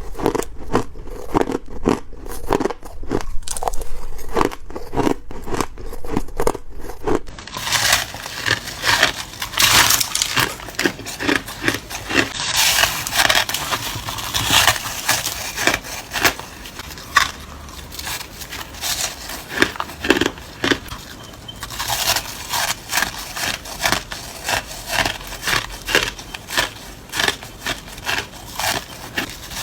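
Ice being bitten and crunched close to the microphone. For about the first seven seconds come sharp, separate crunches with short quiet gaps. After that the crunching turns into a denser, near-continuous crackle.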